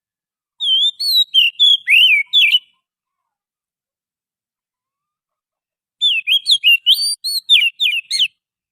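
Oriental magpie-robin (kacer) song from a wild bird. Two phrases of quick, varied whistled notes, each about two seconds long, are separated by a few seconds of silence.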